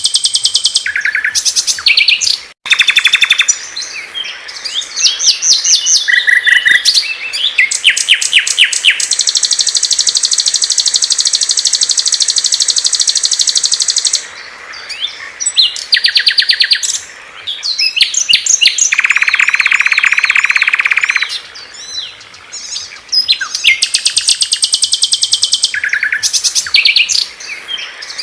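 Loud, clear songs of several small songbirds spliced one after another: rapid high trills and repeated chirps, a long high buzzy trill from about 9 to 14 seconds, and a lower buzzing trill near 19 to 21 seconds. The songs switch abruptly from one recording to the next.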